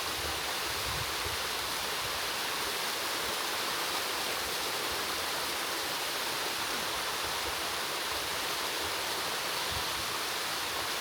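Mountain waterfall rushing steadily: a constant hiss of falling water.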